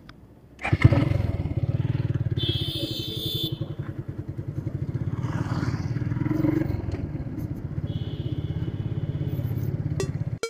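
Single-cylinder engine of a Suzuki Gixxer motorcycle running with a steady, fast pulse, coming in suddenly just under a second in. A brief higher tone sounds twice over it.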